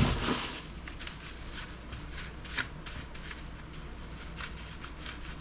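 Hands handling a desktop computer part: an irregular run of light scratchy clicks and rustles, a few each second.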